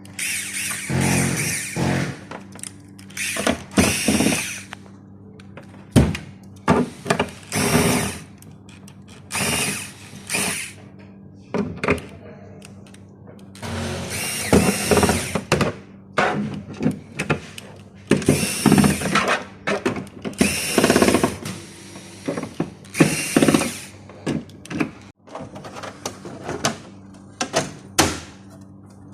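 Electric screwdriver running in repeated short bursts of about a second each, over a steady low hum.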